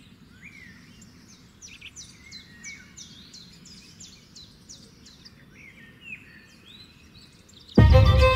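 Birds singing over a faint low steady rumble of outdoor ambience, with a run of quick, falling high chirps, several a second. Near the end, music comes in suddenly and loudly with a deep hit and sustained tones.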